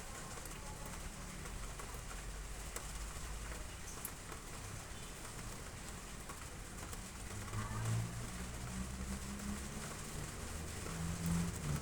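Steady rain falling on roof tiles, an even hiss of drops. From about halfway in, low pitched sounds come and go over the rain and grow louder.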